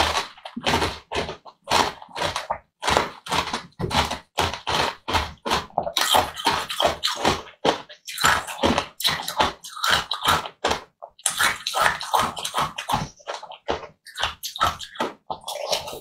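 Close-miked wet chewing and squelching of soft jelly: a quick, irregular run of short sticky mouth sounds, two or three a second.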